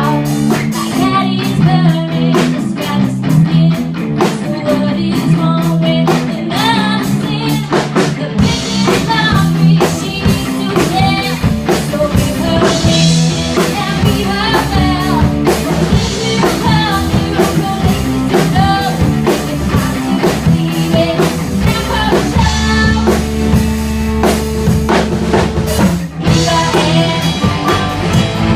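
Hard rock song playing loud: drum kit keeping a steady beat under electric guitar, with a voice singing.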